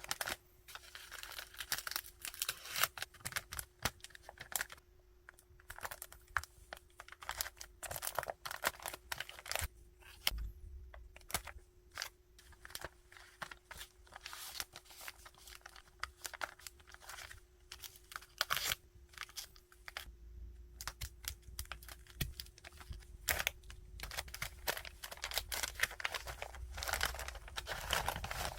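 Packaging materials being handled by hand: irregular bursts of rustling and crinkling, with tearing sounds, as items are wrapped and packed. A faint steady hum runs underneath.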